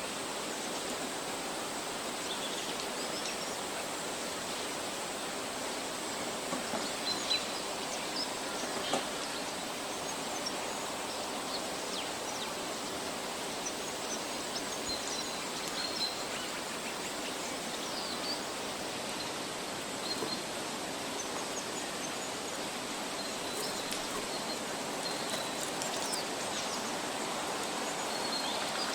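Forest ambience: a steady rushing hiss, like a stream or wind in the trees, with scattered faint bird chirps and a few small clicks.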